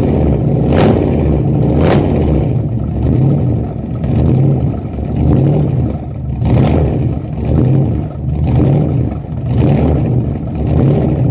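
Corvette engine running at a fast cold idle after a cold start, its note swelling and dipping about once a second, with a few sharp pops near the start and about six and a half seconds in.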